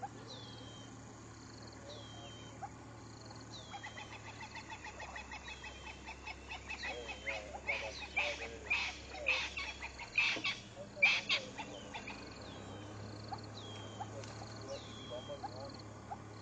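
Wild birds calling: a high whistled note that falls in pitch repeats about every second and a half. From about four seconds in, a rapid series of loud chattering calls builds, peaks around ten to eleven seconds, then stops near twelve seconds.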